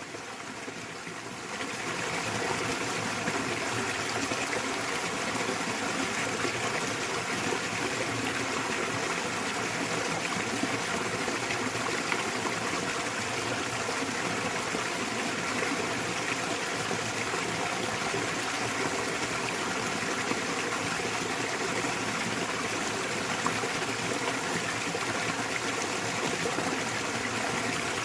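Small waterfall pouring into a mountain stream: a steady, even rush of falling and splashing water. It is briefly softer at the very start, then settles within about two seconds.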